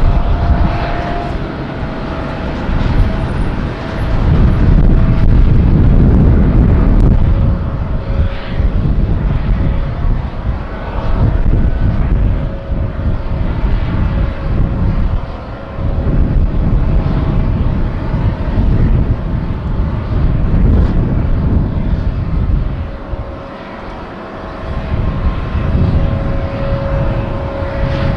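Jet airliner flying low on its landing approach: a loud engine rumble that swells and eases, with faint steady whining tones above it.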